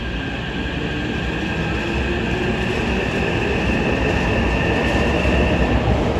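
Hankyu electric train running at a station, its rumble growing steadily louder as it draws near, with a few steady high tones over the rumble that fade near the end.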